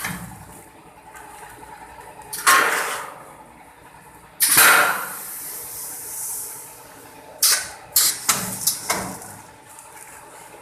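Automatic 5 kg rice packaging machine with twin weigh hoppers running: rice drops through with a rushing hiss about two and a half seconds in, and again, longer and louder, about four and a half seconds in. Several sharp clacks from the machine's mechanism follow.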